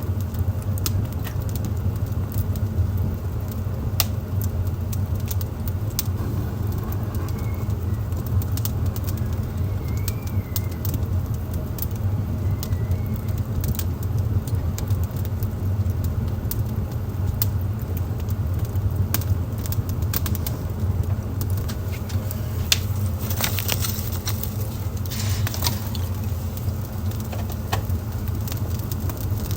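Wood fire burning in a fireplace: scattered sharp crackles and pops over a steady low rumble, with a denser run of crackles a little past two-thirds of the way through. A few faint, short high chirps come through in the middle.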